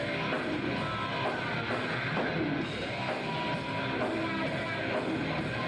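Hard rock band music: electric guitar over a drum kit, playing steadily without a break.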